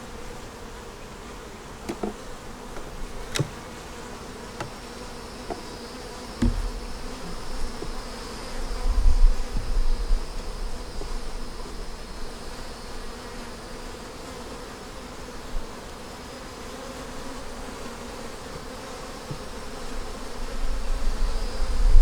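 Honey bees buzzing around an open hive, a steady hum. A few sharp knocks come in the first seven seconds, and low rumbles about nine to ten seconds in.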